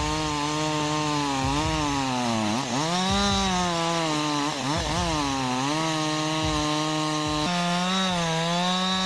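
Petrol chainsaw running at high revs and cutting wood, its engine pitch sagging under load and recovering several times.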